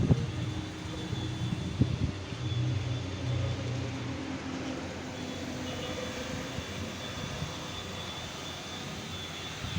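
A steady machine drone with a low hum and a thin high whine, with a few faint knocks.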